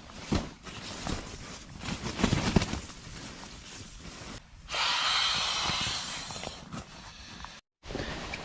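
Camping gear being handled while a sleeping setup is made up at night: irregular rustling and soft knocks, then a steady hiss lasting about two seconds a little past the middle.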